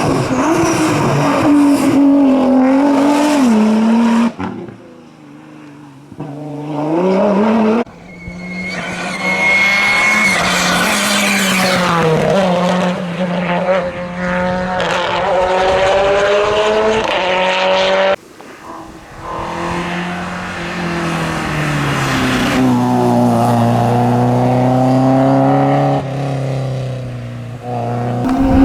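Hillclimb race cars revving hard and accelerating up the course, the engine pitch climbing and dropping through gear changes. The sound cuts abruptly from one car to the next several times, with a quieter car approaching about five seconds in.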